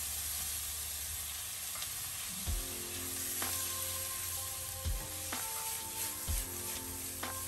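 Chicken pieces and fried onions sizzling in a pan over high heat while being stirred, with a few dull knocks of the stirring utensil against the pan.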